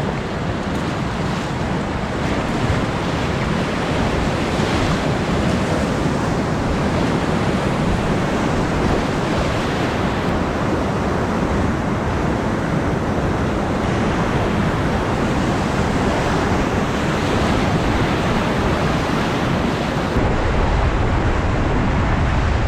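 Whitewater of river rapids rushing steadily, with wind buffeting the microphone. About twenty seconds in, the rush turns louder and deeper.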